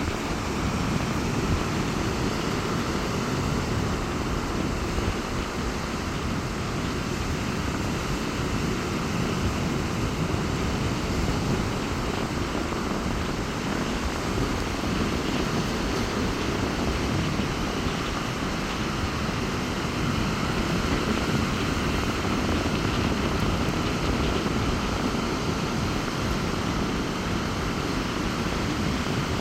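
Sea surf breaking on a beach in strong wind, a steady rumbling wash of noise with no breaks, with wind buffeting the microphone.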